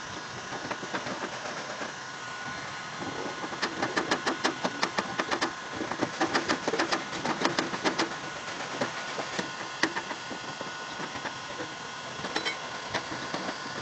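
Rapid light tapping on a car body panel during paintless dent repair, in bursts of several quick taps a second for a few seconds, with a few scattered taps later, over a steady background hum.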